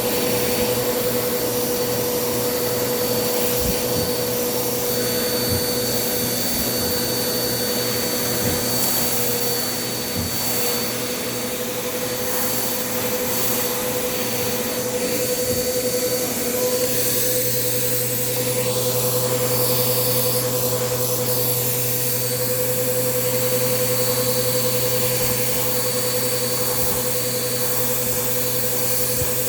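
Bissell PowerForce Compact vacuum running steadily, its motor whine holding one pitch, with scattered clicks of debris being sucked up in the first half.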